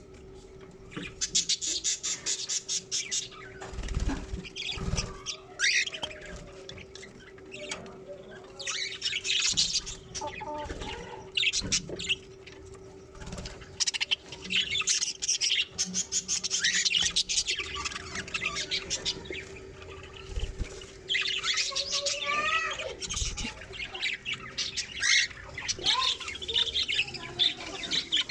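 Budgerigars chirping and chattering in rapid high-pitched bursts of a few seconds each, with a steady low hum underneath and a few dull thumps.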